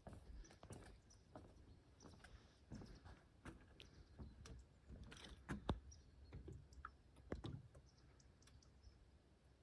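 Faint footsteps of a person walking, a soft step about every half second to second, dying away about eight seconds in.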